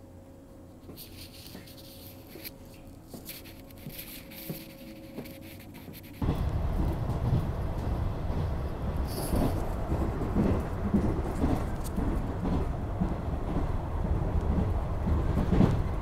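Quiet cabin of a standing KuHa 455 express-type train car, with a faint hum and a few light clicks. About six seconds in it cuts abruptly to the loud, steady low rumble of the train running along the track, heard from inside the car.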